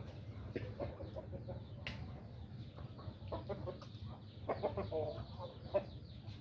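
Chickens clucking in a run of short calls, busiest from about three to six seconds in, over a steady low hum.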